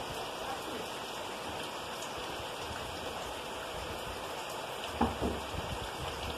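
Heavy rain falling as a steady hiss, with one low thump about five seconds in.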